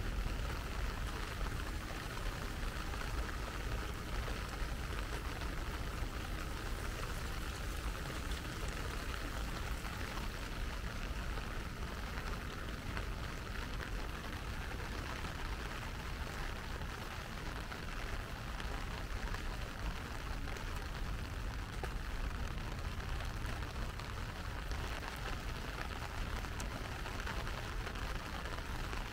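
Steady rain falling, an even hiss of drops, over a low steady rumble.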